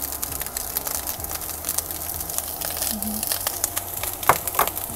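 Fried rice sizzling and crackling in a non-stick pan over high heat while a wooden spatula stirs and scrapes through it, with a few sharper clicks of the spatula about four seconds in.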